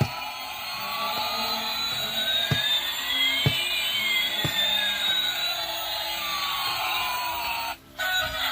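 Jet aircraft engine sound: a steady rushing noise with a whine that rises and then falls back. It cuts off suddenly about a second before the end.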